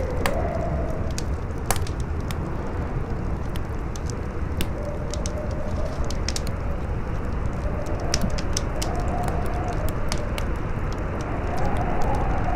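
Campfire crackling, with frequent sharp pops at irregular intervals, over steady wind with a low rumble. A faint wavering howl in the wind rises and falls and swells near the end.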